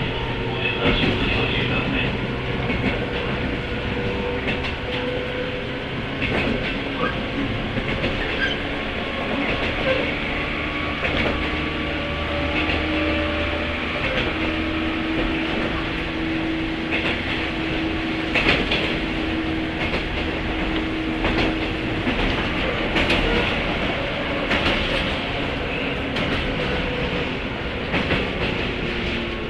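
Running sound heard aboard a 103 series electric motor car (MoHa 102) with MT55 traction motors: steady rolling noise from the wheels on the rails, scattered knocks, and a held motor tone through the middle.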